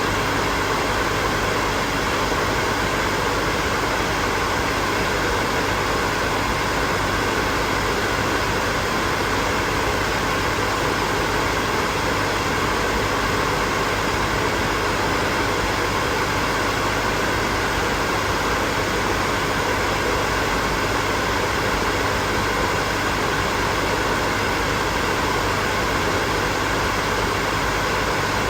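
Hair dryer running steadily: a continuous, even rush of blown air and motor whir with a faint steady hum.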